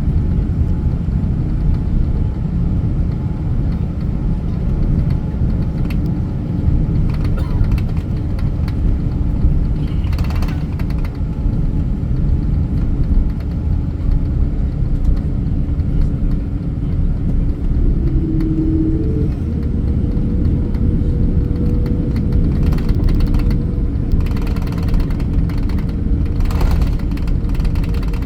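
Steady low rumble of jet engines and airflow heard inside an airliner cabin, with a faint hum that steps up in pitch about two-thirds of the way through.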